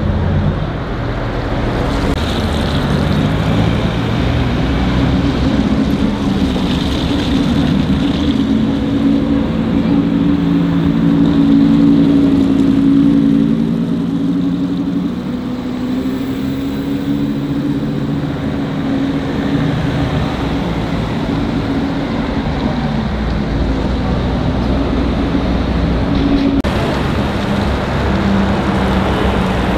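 Car engines running at low revs, their pitch drifting slowly up and down. The sound changes abruptly about 27 seconds in.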